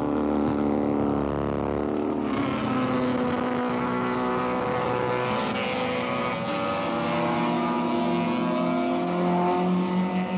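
Several superbike racing motorcycle engines running hard at once, their pitches rising and falling as the bikes go round the circuit. The sound grows fuller about two seconds in.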